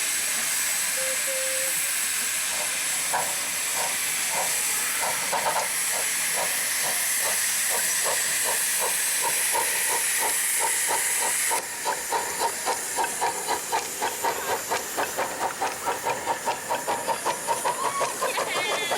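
Miniature steam locomotive starting away: steady steam hiss, then exhaust beats begin about three seconds in and come quicker and quicker. About two-thirds of the way through the hiss drops away and the beats turn sharp and even.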